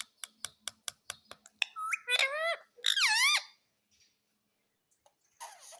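Pet parrot making a run of quick sharp clicks, about five a second, for the first second and a half. It then gives two loud squawking calls that waver up and down in pitch, about two and three seconds in, and a short harsh call near the end.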